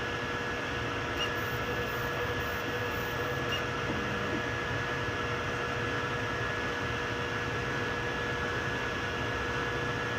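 3D printers running mid-print: a steady mechanical hum with two steady whining tones, one low and one higher.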